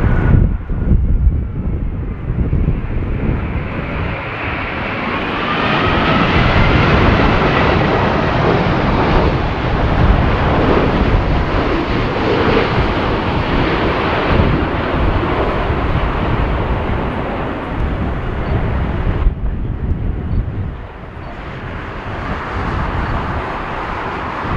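Jet airliner's engines passing close on a landing approach: a loud rush of engine noise with a whine that bends in pitch, building over the first few seconds, holding, then falling away about twenty seconds in.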